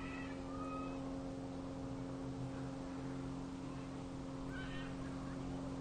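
A steady low hum at several constant pitches, with a few short high chirps near the start and again about four and a half seconds in.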